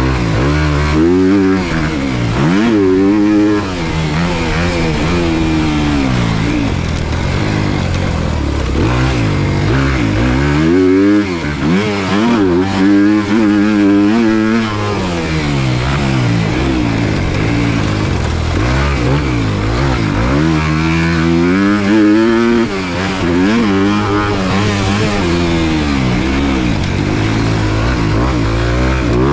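Dirt bike engine ridden hard around a motocross track, revving up and backing off over and over, its pitch rising with each throttle pull and falling as the rider shifts or rolls off.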